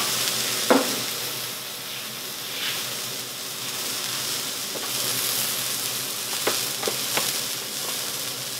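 Chopped fresh chilli sizzling steadily in hot oil in a wok. A few light clicks sound over it, one about a second in and three around seven seconds.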